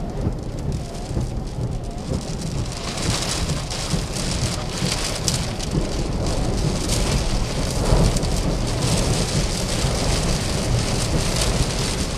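Heavy rain from a tornadic thunderstorm pelting down, with a dense patter that grows heavier about three seconds in. A constant low rumble runs beneath it.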